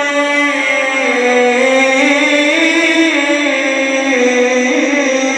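A male Quran reciter's voice sustains one long ornamented melodic phrase in the mujawwad style, without a break for breath. The pitch steps up and down slowly.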